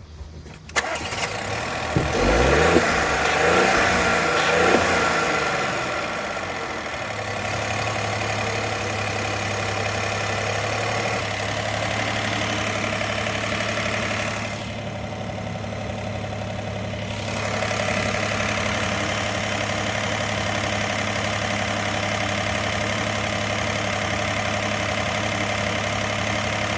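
Volkswagen Polo petrol engine being cranked by the starter and catching about two seconds in. Its revs flare up and come back down, and it settles into a steady idle by about seven seconds in.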